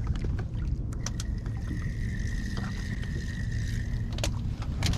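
Kayak on open water with wind on the microphone: a steady low rumble, a few sharp knocks, and a faint steady high tone from about one to four seconds in.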